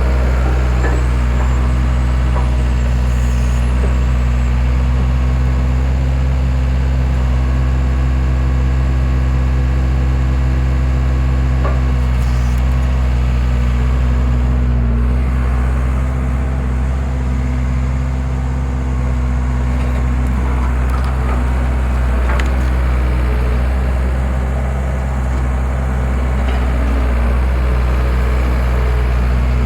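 Skid steer engine running steadily under the homemade log splitter, with a few faint knocks partway through.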